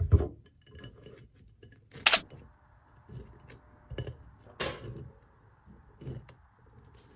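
Kitchen handling sounds while making a peanut butter sandwich: dishes and utensils knock and clink, with a thud at the start and two sharper clicks about two and four and a half seconds in. A faint steady hiss comes in after about two and a half seconds.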